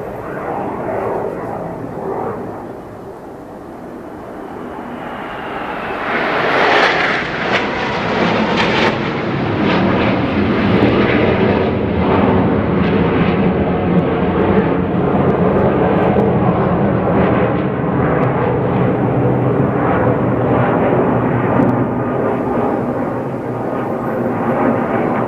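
Jet engines of the Swiss Team's Northrop F-5E Tiger II fighters flying past. The engine noise swells over the first quarter, is loudest about seven seconds in, and stays loud and dense after that.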